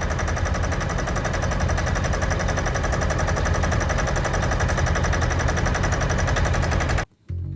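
An engine running steadily under power with a rapid, even firing beat, cutting off abruptly near the end.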